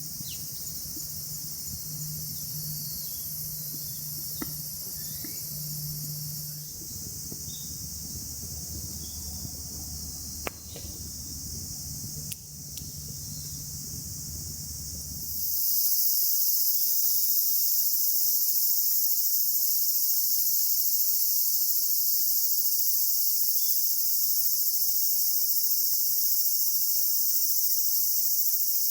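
Steady, dense high-pitched chorus of insects, crickets or similar, chirring without a break; about halfway through it abruptly becomes louder. A few light knocks sound in the first half.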